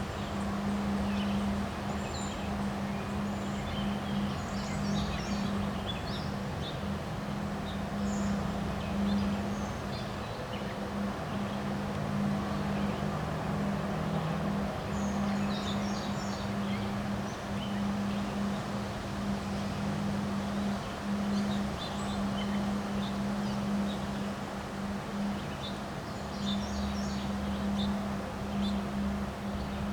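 Steady wind blowing and rustling, with birds chirping on and off throughout. A steady low hum runs underneath, dropping out briefly now and then.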